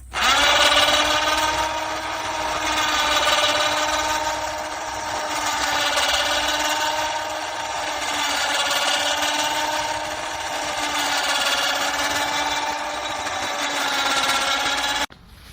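A small motor running with a steady whine whose pitch and loudness waver slightly, cutting off suddenly near the end.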